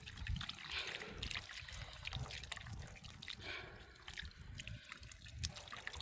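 Water trickling and dripping, with scattered small clicks and knocks.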